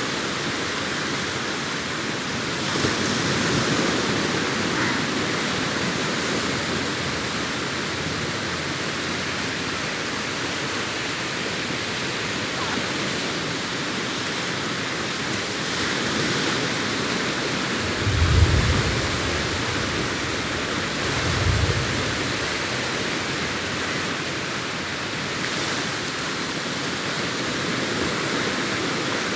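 Sea waves breaking and washing up the beach in a continuous rush that swells and eases. Past the middle there are two short low thumps.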